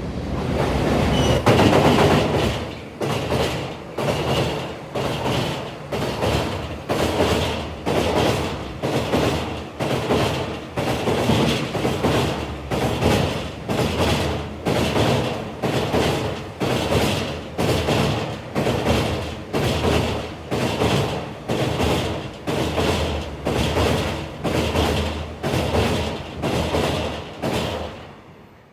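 A JR Freight train, hauled by an EF210 electric locomotive, passing close by at speed: a loud rush of wheels on rails with a regular clack as the wagons' wheels cross the rail joints. It is loudest about two seconds in and dies away near the end.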